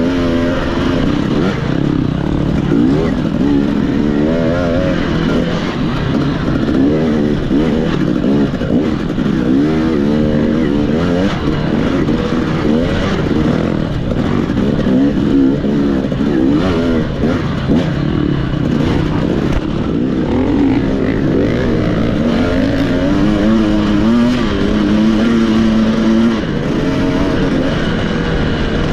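Off-road racing motorcycle engine revving up and dropping back again and again as the rider works the throttle and gears through the course.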